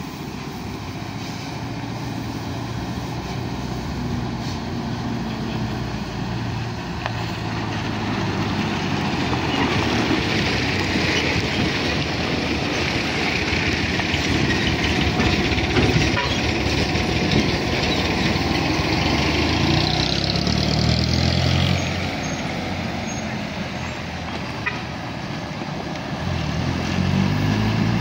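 Heavy diesel engine of construction machinery running under load. It gets louder about a third of the way in and revs up in pitch twice, in the latter part and near the end.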